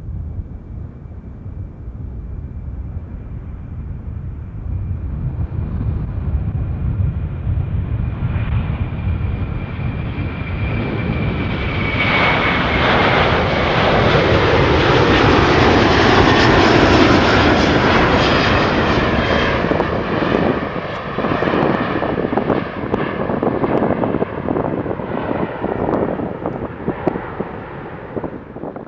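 An Airbus A330-323's twin Pratt & Whitney PW4170 turbofans at takeoff power, a rumbling roar that swells as the jet passes close by, with a high fan whine that drops in pitch about twelve seconds in. It peaks midway, then goes on as a crackling rumble while the aircraft moves away.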